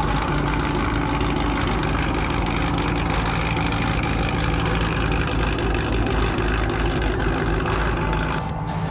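Car engine idling steadily, with the sound changing abruptly near the end.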